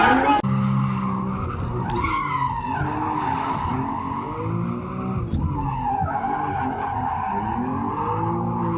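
Drift car sliding, its engine revving up and down over and over while the tyres squeal steadily.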